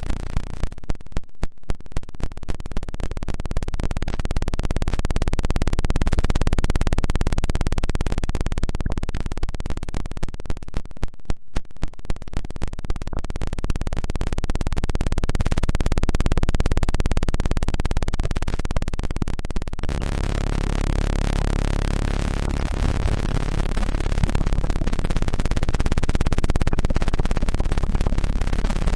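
Electronically generated 'healing frequency' tones: a dense, rough, buzzing texture that pulses rapidly and swells slowly in loudness. About twenty seconds in it changes to a different set of steady low tones.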